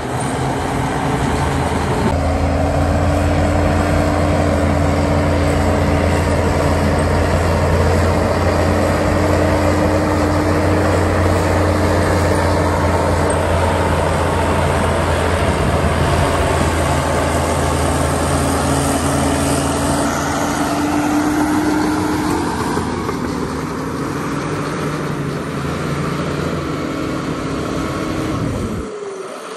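Heavy diesel earthmoving machinery running steadily under load, a continuous loud engine drone. The engine note shifts a little about two-thirds of the way through and drops out briefly near the end.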